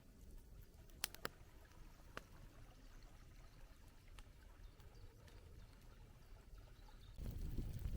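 Faint campfire crackling: a few sharp, widely spaced pops over a low steady rumble. About seven seconds in, a louder low rumble sets in.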